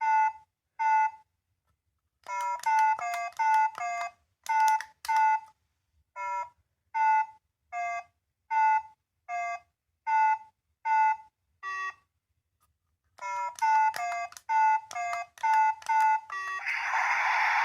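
Small electronic sound toy playing short beeps that mostly alternate between two pitches in a quick repeating pattern, briefly pausing partway through. Near the end a loud, harsh buzz starts.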